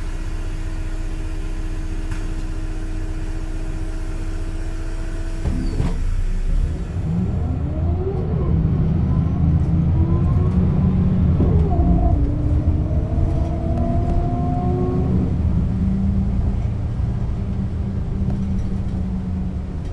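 1996 Setra S 315 UL bus idling with a steady whine, then from about six seconds in pulling away. The engine and ZF gearbox note rises several times and drops back as it shifts up through the gears.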